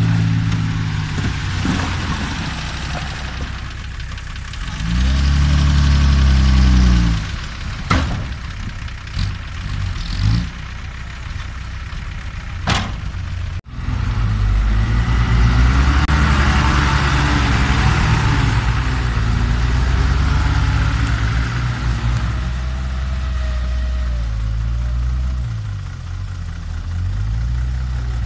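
Six-wheel dump truck's diesel engine idling and revving up and down repeatedly, with a few sharp knocks in the first half.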